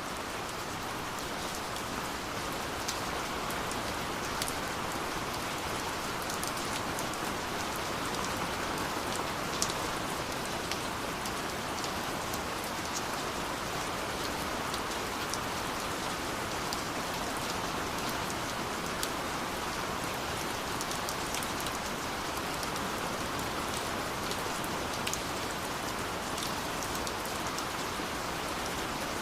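Steady rain falling, with a continuous hiss and many small scattered drop ticks.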